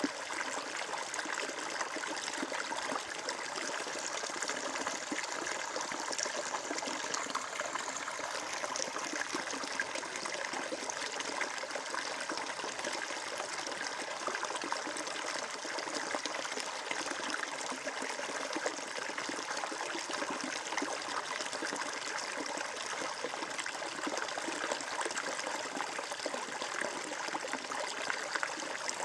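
Stream water flowing and trickling steadily, a constant splashy babble with no breaks.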